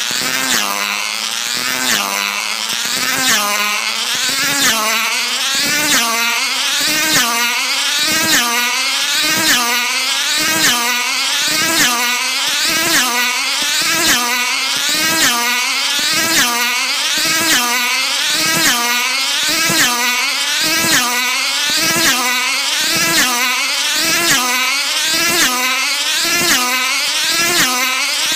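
Class 10A tether car's small high-revving two-stroke engine screaming at speed as the car laps the tethered circle, its pitch and loudness rising and falling in a steady cycle a little more than once a second as it passes round.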